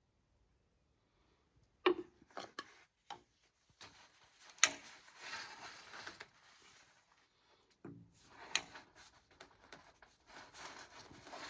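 Hands-on work noise: scattered clicks, knocks and scrapes, starting about two seconds in, with a sharper knock near the middle and another shortly after.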